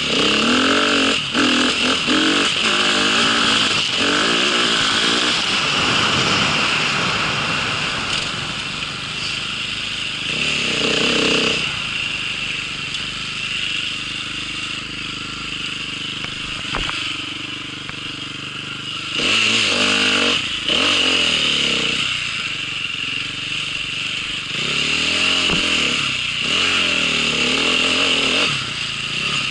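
Small vehicle engine revving up and falling back again and again, as on an off-road ride, with a quieter, steadier stretch in the middle.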